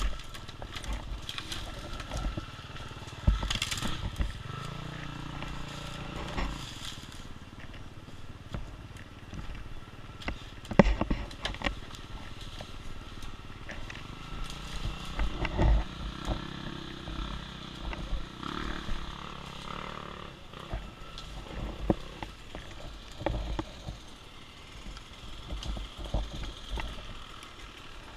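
Off-road dirt bike engine running at low revs on a woods trail, swelling a couple of times, with scattered knocks and thumps from the bike jolting over the ground.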